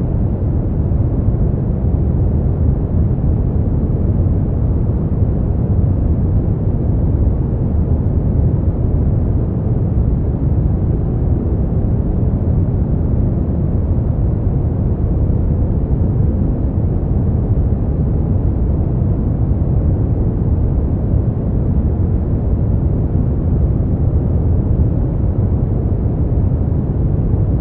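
Steady brown noise: an even, deep rumbling hiss, strongest in the bass and falling away toward the treble, with no change.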